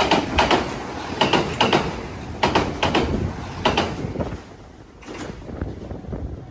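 Train wheels clattering over a rail joint as the train passes, in pairs of knocks about every second and a quarter; the clatter fades out about four seconds in.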